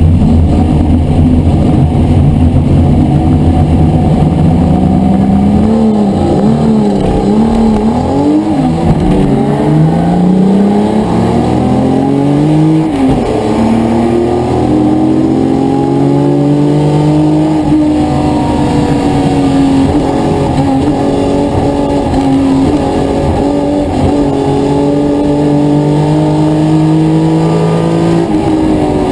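Historic touring car engine running hard. It climbs in pitch and drops back at several upshifts in the first half, then holds high, steady revs for a long stretch before easing near the end.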